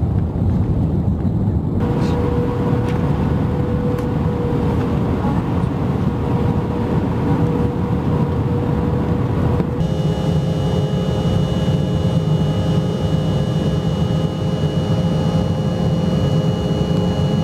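Jet airliner cabin noise heard from a window seat: a steady engine and air roar with a thin, steady whine over it. The sound changes abruptly about two seconds in and again near the middle as shots from different flights follow one another, the last with several high whining tones.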